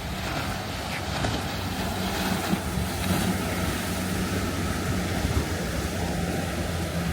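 Motorboat engine running steadily as a low hum, with surf and wind noise on the microphone.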